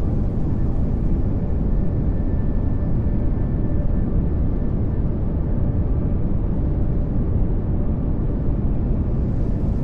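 Steady pink noise: an even, unbroken rushing hiss, heaviest in the low end.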